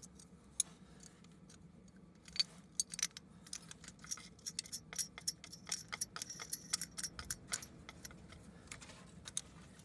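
Light metallic clicking and clinking of hand tools working the puller threaded into the engine head's core plug. A dense run of irregular clicks comes from about two and a half seconds in until just before eight seconds, over a faint steady low hum.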